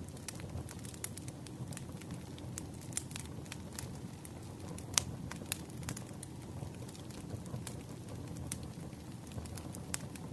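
Campfire of burning wood crackling and popping irregularly over a low steady rumble, with one sharp pop about five seconds in.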